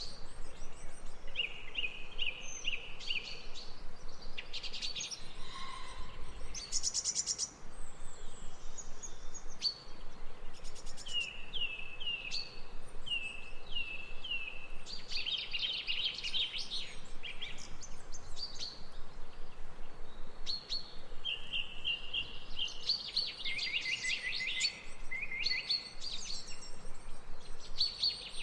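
Several songbirds singing and chirping, with short repeated notes and trills overlapping one another, over a steady background hiss of outdoor ambience.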